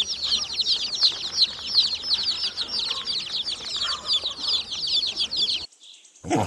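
A group of chicks peeping: many quick, high, downward-sliding peeps overlapping in a busy chorus, which stop shortly before the end.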